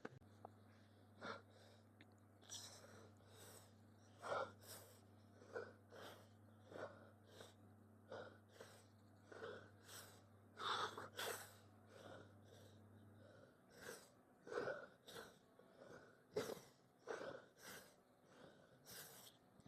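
A man breathing hard in short, regular exhalations, a little more than one a second, as he strains through a set of weight lifting. A low steady hum stops about thirteen seconds in.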